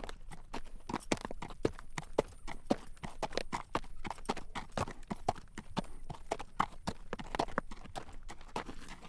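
Horse's hooves clip-clopping at a walk on a paved road while drawing a carriage, a steady run of sharp clacks, several a second.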